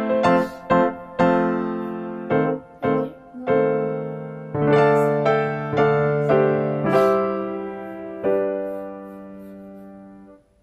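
Background piano music: a slow piece of struck notes and held chords that fades out near the end.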